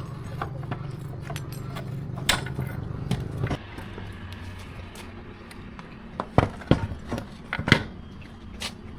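Metal parts and hand tools clinking and knocking, with a few louder knocks past the middle, over a low steady hum that stops about three and a half seconds in.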